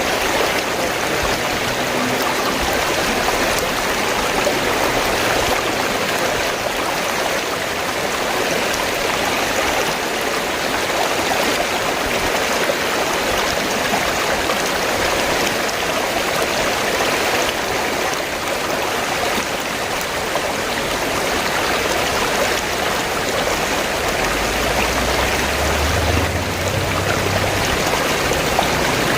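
River water flowing and splashing steadily. A low rumble comes in near the end.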